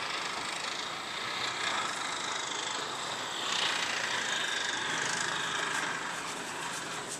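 A car running at low speed, its engine and road noise heard steadily from inside the cabin.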